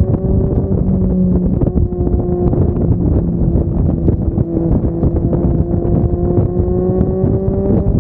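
Triumph Street Triple 675's three-cylinder engine running through an aftermarket Yoshimura exhaust while the bike is ridden, its note rising slowly over the last few seconds and dropping just before the end. Wind buffets the microphone throughout.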